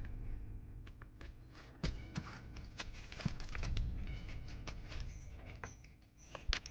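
Irregular clicks, taps and rustles of hands handling material, with a low rumble underneath; a sharper knock comes near the end.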